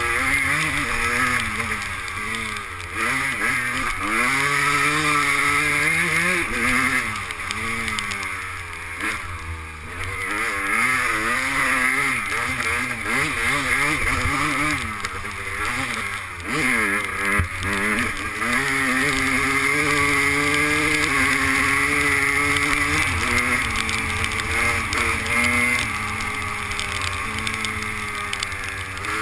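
250 cc two-stroke motocross bike engine being ridden, its pitch constantly rising and falling with throttle and gear changes, heard through a GoPro camera.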